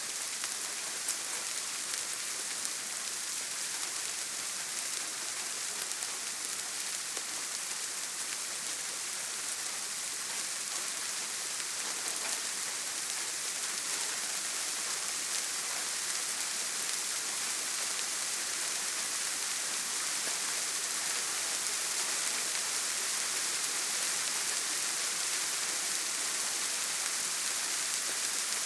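Steady heavy rain on a tin roof, an even hiss with fine drop ticks, growing slightly louder in the second half. No thunder.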